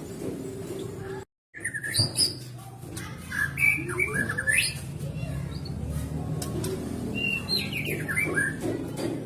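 White-rumped shama singing in short, varied phrases of quick whistles and chirps, after a brief complete dropout about a second in, over a steady low hum.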